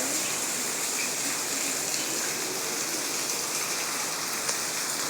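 Steady hiss of falling or running water, even and unbroken, brightest in the high range.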